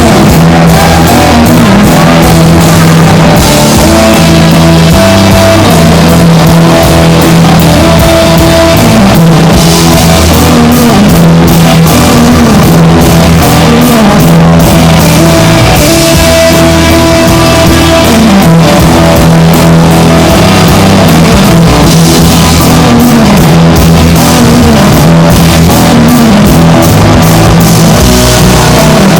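Rock band playing loudly: guitar over bass and drum kit with a steady beat, and repeated sliding notes down in the low range.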